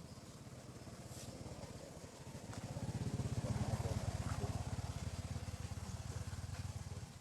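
Motorbike engine passing by, its rapid even putter growing louder to a peak midway, then easing and cutting off just before the end.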